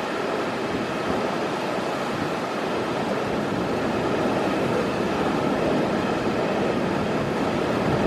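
Steady rush of typhoon wind and surf, with wind buffeting the microphone.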